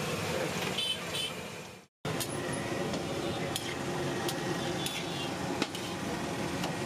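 Masala vadas frying in a kadai of hot oil: a steady sizzle, with a slotted metal spatula clicking against the pan now and then. The sound drops out for a moment about two seconds in.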